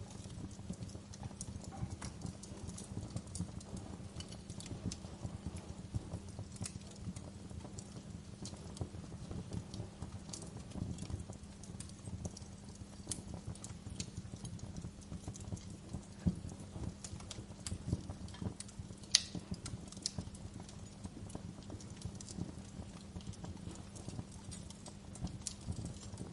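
Wood fire crackling: irregular small pops and snaps over a low steady rumble, with a sharper pop about 19 seconds in.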